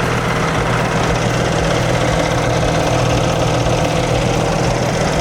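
Cummins X15 inline-six diesel engine running at a steady idle.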